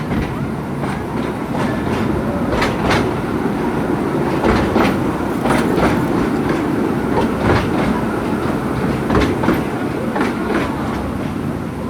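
Narrow-gauge forest railway train running, heard from aboard a passenger car: a steady rumble with irregular sharp clicks of the wheels over the rail joints.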